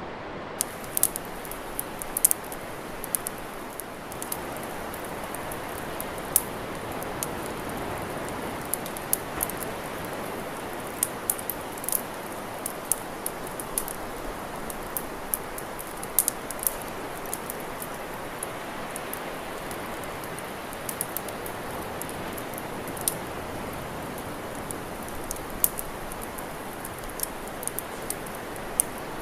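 Campfire crackling: irregular sharp pops and snaps, several a second at times, over a steady rushing hiss.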